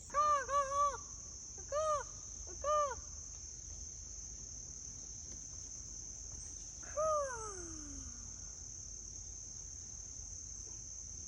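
Steady high-pitched drone of crickets. Over it come short pitched calls: three quick rise-and-fall notes at the start, two more a second apart, and one long falling call about seven seconds in.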